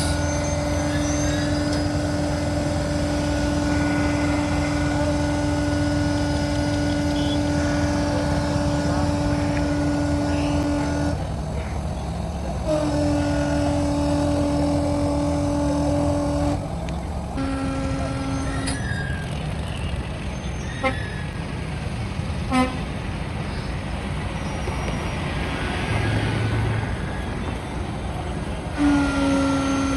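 Truck horns sounding in long held blasts over the low running of heavy truck engines. The first blast lasts about eleven seconds, then come a four-second blast, a short lower one, and another starting near the end. Two sharp clicks fall in the gap between blasts.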